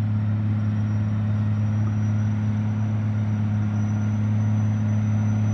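Diesel engine running steadily at a constant speed: a deep, even hum with a faint high whine above it.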